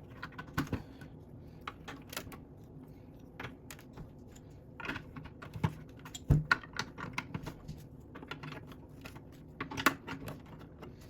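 Lego plastic pieces clicking and clattering as they are handled and pressed together: irregular light clicks, with sharper ones about six seconds in and near ten seconds.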